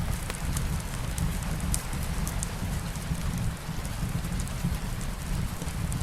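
Steady light rain mixed with a fireplace, its occasional small crackles over a low, even rumble.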